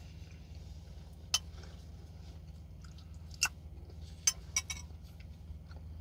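A person chewing a sandwich close to the microphone, with a few short sharp mouth clicks. A steady low hum runs underneath.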